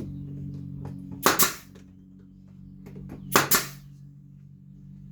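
Pneumatic brad nailer firing two nails, about two seconds apart, each shot a sharp double crack with a short hiss of air. A steady low hum runs underneath.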